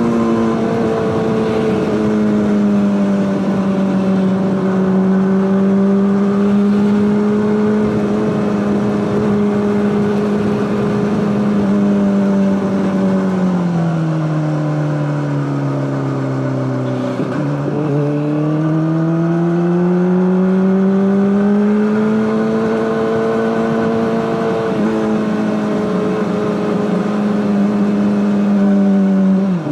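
Honda CBR600RR inline-four engine with an Akrapovic exhaust, running at steady revs. About halfway through the revs sink gradually, then climb back up over a few seconds and hold steady again.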